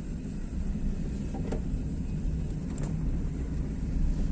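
Vehicle on the move: a steady low engine and road rumble, with a few faint clicks.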